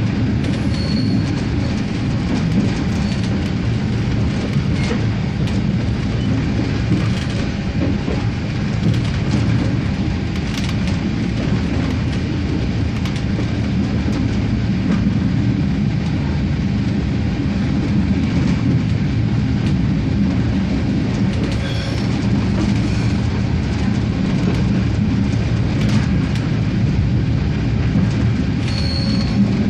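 Regio-Sprinter diesel railcar running along the line: a steady mix of engine and wheel-on-rail noise, with a few light clicks.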